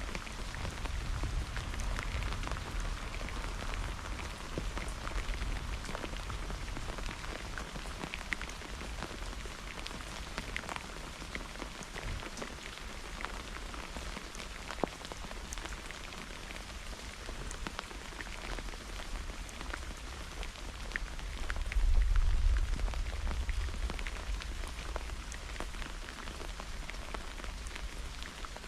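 Thunderstorm rain falling steadily: an even hiss scattered with the ticks of individual drops. A low rumble swells for a few seconds about two-thirds of the way through.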